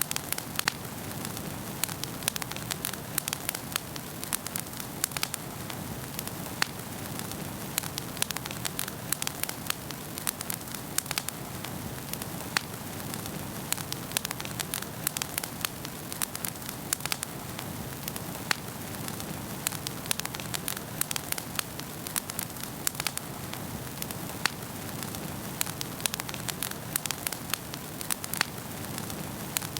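Wood fire crackling in a fireplace: a steady low rumble of flames with frequent sharp, irregular pops and snaps.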